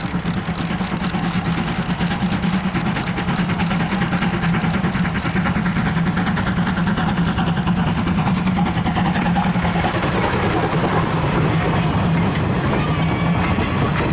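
A vehicle engine running with a steady low drone and a rapid rhythmic clatter, growing gradually louder.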